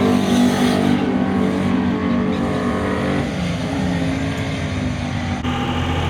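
Drag-racing truck engine running hard at high revs. Its pitch climbs briefly, then holds roughly steady, and the sound shifts abruptly near the end.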